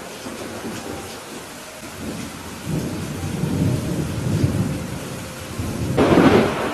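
Thunderstorm: steady rain hiss with rolling thunder, a low rumble building about a third of the way in and a louder rumble near the end.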